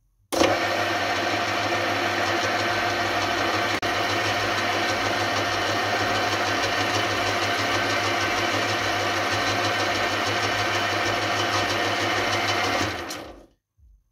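Metal lathe switched on and running steadily in reverse, a constant hum, while an upside-down thread-cutting tool lightly deepens one of the rings on a fork-cap preload adjuster; it is switched off near the end and winds down.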